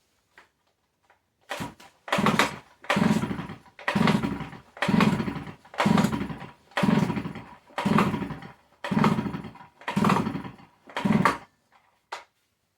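Stihl 056 AV two-stroke chainsaw being pull-started about ten times in a row, roughly one pull a second: the recoil starter whirs and the engine turns over on each pull but never fires. The saw won't catch because fuel isn't getting from the tank to the carburettor.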